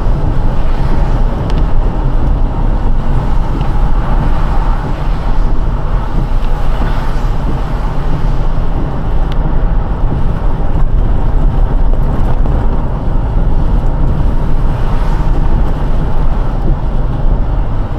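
Car driving on a rain-wet road: steady low road, tyre and engine noise, with a few faint ticks.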